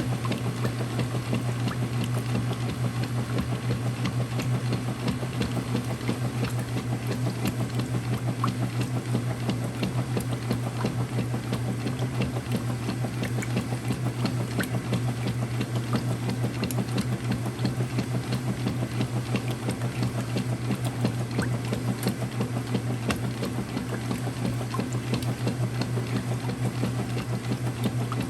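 Early-2000s Whirlpool direct drive washer running: a steady low hum with a dense, fast rattle over it.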